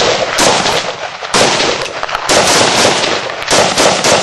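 Rifle shots fired in a quick string, about one a second, each a sharp crack followed by a long echoing tail.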